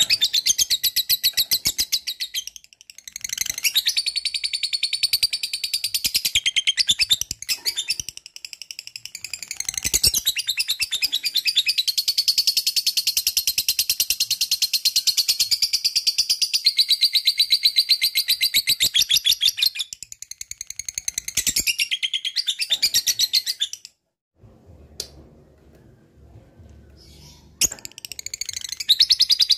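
Lovebird singing its long 'ngekek' song: a rapid, high chattering trill held for several seconds at a time and broken by short pauses. A longer pause comes near the end before it starts again.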